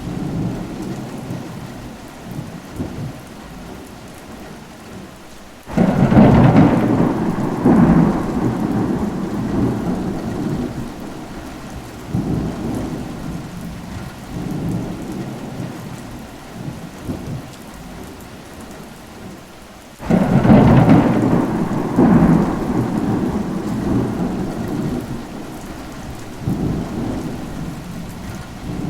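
Steady rain with two claps of thunder, one about six seconds in and one about twenty seconds in, each breaking suddenly and then rumbling on for several seconds.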